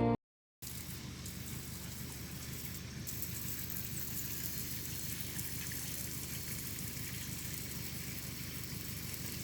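Water from a garden hose spraying steadily onto a newly laid brick walkway, an even hiss.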